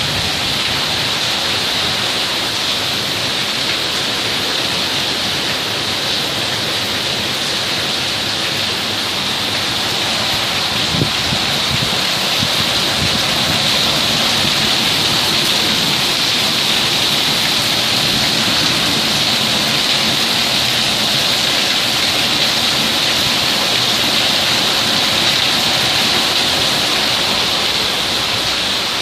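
Heavy, steady rain falling during a thunderstorm, an even hiss of downpour with no change in strength.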